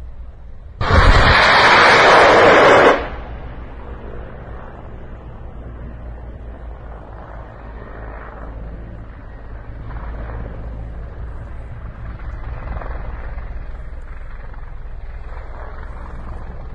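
Rockets fired from a helicopter: a loud rushing roar that starts suddenly about a second in and cuts off after about two seconds, over a steady low rumble.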